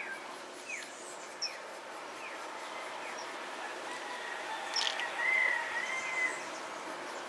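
Birds calling: a string of short falling chirps, then a brief wavering call about five seconds in, over a faint steady hiss. A short click comes just before the wavering call.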